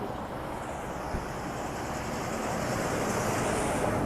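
Steady rushing noise of road traffic, growing a little louder toward the end.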